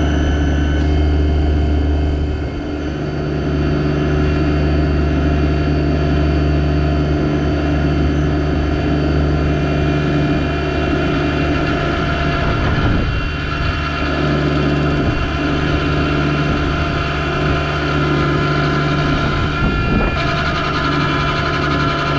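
Yanmar SA324 compact tractor's three-cylinder diesel engine running steadily, its note dipping briefly about two and a half seconds in and shifting again around thirteen seconds.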